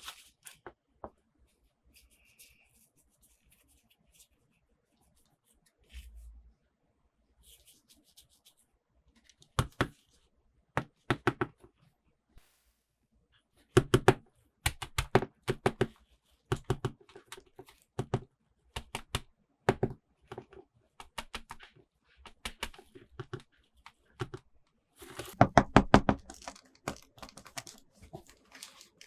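Hands unboxing toys: plastic doll parts and packaging clicking and tapping, sparse at first, then a run of sharp taps from about ten seconds in and a short stretch of scratchy tearing and crinkling near the end.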